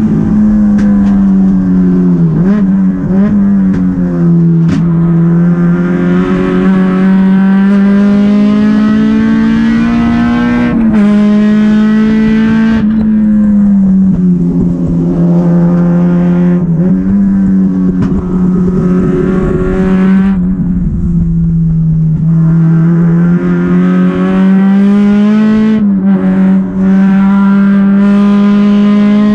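Honda Civic race car's four-cylinder engine, heard loud from inside the stripped cabin, running hard on track. Its pitch climbs steadily through each gear and drops sharply at every shift and braking point, several times over.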